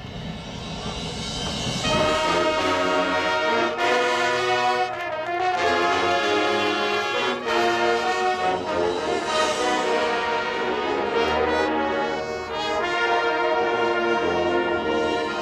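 Marching band brass section playing loud sustained chords with trombones and trumpets, swelling in over the first two seconds and changing chord every second or two.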